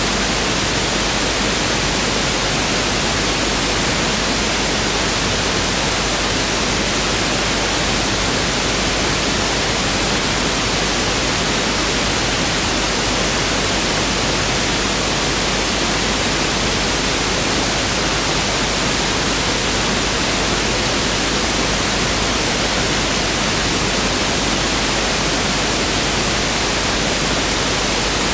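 Pink noise test signal: a steady, unchanging hiss spread evenly across all pitches, with equal energy per octave (1/f).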